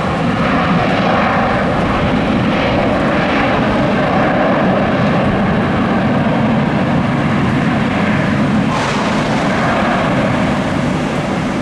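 Airliner jet engines running loud and steady.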